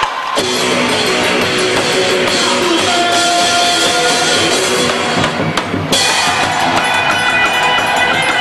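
Band music with a drum kit, bass drum and guitar, playing steadily with a short break in the cymbals and high end a little past halfway.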